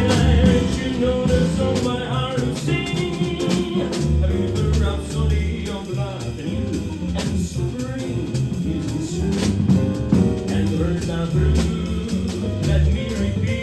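Live jazz band playing, with singing over a drum kit and bass.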